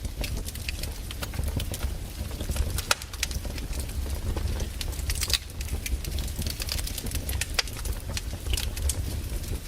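Wood fire crackling: burning logs give irregular sharp snaps and pops over a low, steady rumble.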